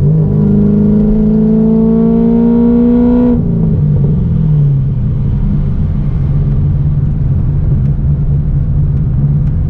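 Straight-piped, cammed 6.2 L LS3 V8 of a 2009 Corvette C6 at full throttle on a drag pass, heard from inside the cabin, revs climbing steadily through a gear. A little over three seconds in the revs drop suddenly and fall away, and the engine settles into a steady low rumble as the car rolls out.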